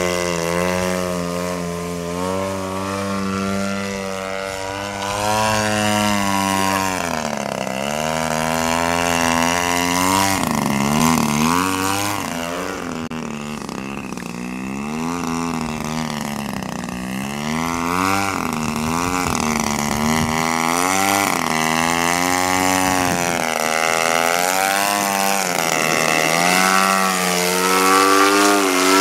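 Two-stroke 50cc gasoline engine of a radio-controlled Edge 540T aerobatic model plane running in flight, its pitch rising and falling again and again through the manoeuvres.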